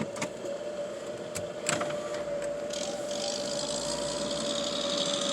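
Car idling in a drive-thru line, heard from inside the cabin: a steady hum with one held tone, a few light clicks near the start, and a higher hiss joining about two seconds in.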